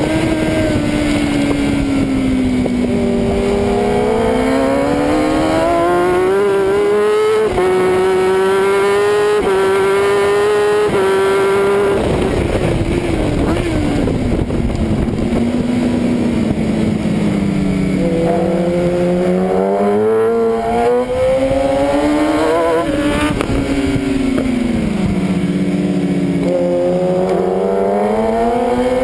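1000 cc superbike engine heard from on board at racing speed: the engine note climbs in a series of steps through the gears, then drops as the rider slows for a corner, and climbs and falls twice more.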